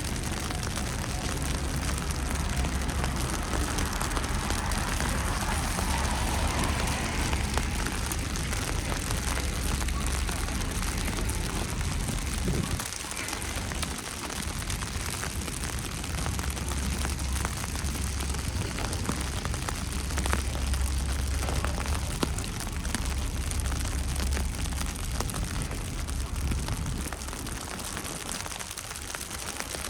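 Steady hiss of wet snow and rain falling on the ground and surfaces, with a low rumble underneath that drops away briefly about thirteen seconds in.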